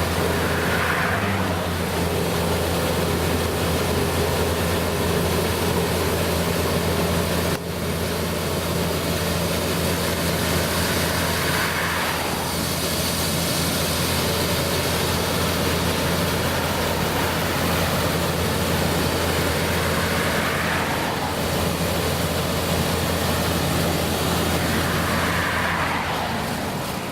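Engine of a large farm machine running steadily, a constant low drone under a wash of mechanical noise, with a brief break about seven and a half seconds in.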